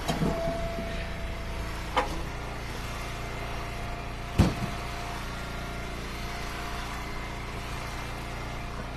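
Eastonmade wood splitter's engine running steadily, with two sharp knocks of split firewood, the second louder, about two and four and a half seconds in.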